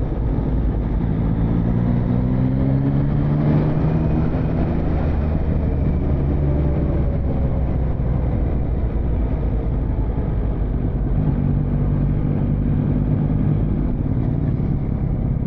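Motorcycle engine pulling along in traffic, its revs rising about two seconds in and then holding steady, over steady wind and road noise.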